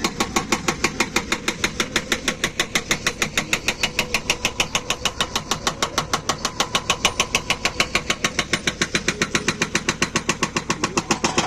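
Hydraulic rock breaker on a JCB 3DX backhoe loader hammering steadily, a fast even train of blows at about seven a second that stops near the end.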